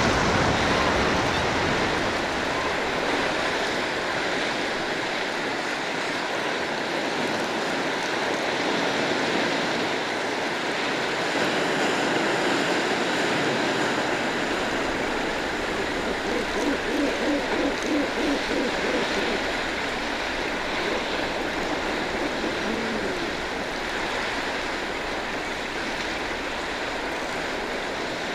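Steady din of a northern gannet seabird colony, many birds calling at once over the wash of sea surf below the cliffs. About two-thirds of the way through, a rapid run of pulsed calls stands out.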